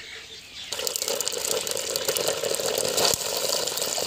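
Crumbled dried buffalo-colostrum milk landing in hot ghee in a brass karahi and sizzling as it starts to fry; the sizzle starts suddenly about a second in and keeps going, with a single knock about three seconds in.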